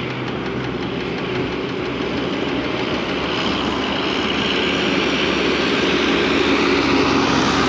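Riding noise of a MiniPro Mi716 electric scooter under way: steady rush of wind and tyre noise on the road, growing gradually louder.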